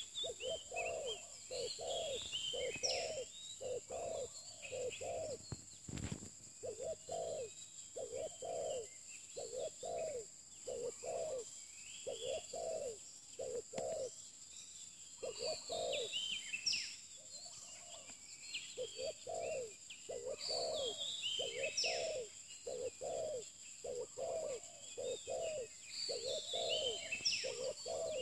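Spotted dove cooing: low coo notes repeated in short phrases again and again, with small birds chirping higher above it.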